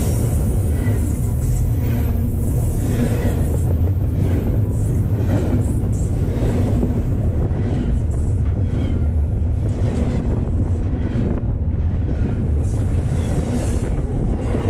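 Double-stack intermodal freight train's container well cars rolling past right at the rails: a loud, steady rumble of steel wheels on track, with scattered clanks and clatter.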